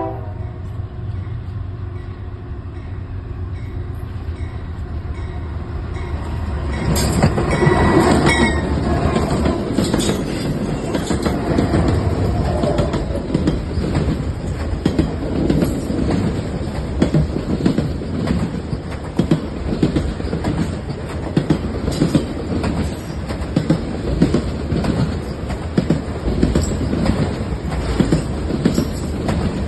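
A freight train led by CPKC and Union Pacific diesel locomotives passing close by. The locomotives' engines drone steadily as they approach and go by about seven seconds in. After that comes the rumble of the rail cars, with wheels clacking rhythmically over rail joints and some wheel squeal.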